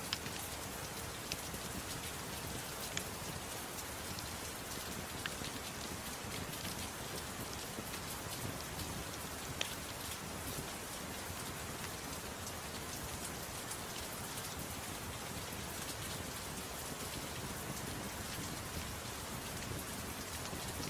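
Steady soft rain falling, an even hiss, with a few sharp crackles from a wood fire scattered through it.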